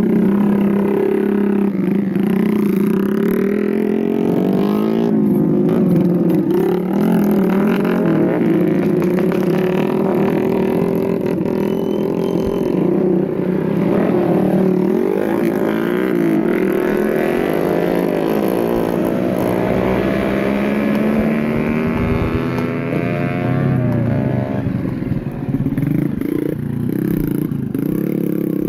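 Motorcycle engine running continuously. Its note holds fairly steady, then slowly rises in pitch in the second half.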